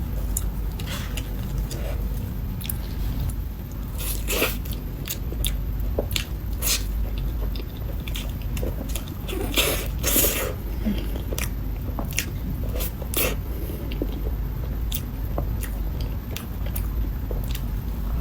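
Close-miked eating of a soft matcha mille crepe cake: chewing with many short, irregular wet mouth clicks and smacks, a denser, louder cluster about ten seconds in, over a steady low hum.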